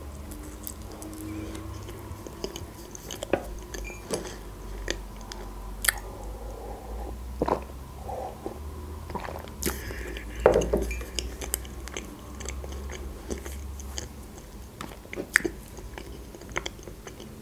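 Close-miked chewing of a person eating soft cheesecake, with a sip from a mug partway through and scattered sharp clicks of the fork. A louder thump comes about ten seconds in.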